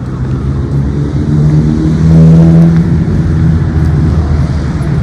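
A motor vehicle's engine running close by, a low steady hum that grows louder and is loudest about two seconds in.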